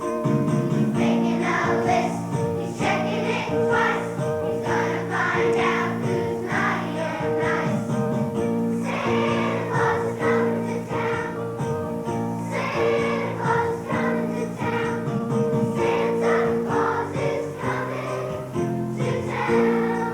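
Children's choir singing a Christmas song over steady instrumental accompaniment.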